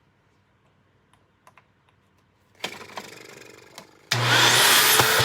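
Hoover WindTunnel upright vacuum switched on about four seconds in, its motor spinning up with a rising whine and then running loud and steady. The motor starting shows that the newly fitted power cord works.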